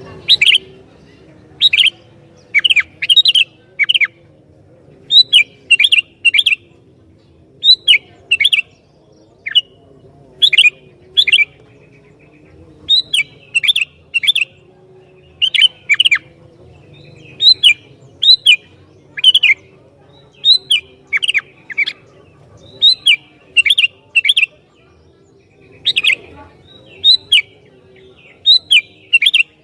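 Sooty-headed bulbul (kutilang) in full, persistent song: short, loud phrases of two to four quick notes, each sweeping down from high pitch, repeated every second or two with brief pauses between.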